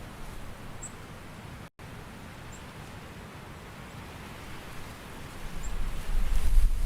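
Continuous soft outdoor nature ambience, a steady hiss like rain or rustling leaves. It cuts out for an instant about two seconds in, and a low rumble swells up near the end.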